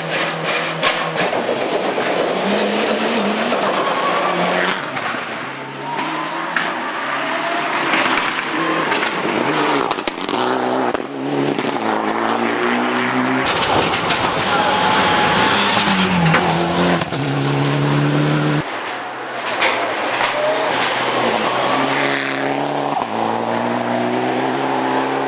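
Mitsubishi Lancer Evolution X rally car's turbocharged four-cylinder engine revving hard, its pitch climbing and dropping back again and again through gear changes. Sharp pops and cracks are scattered through, with some tyre squeal.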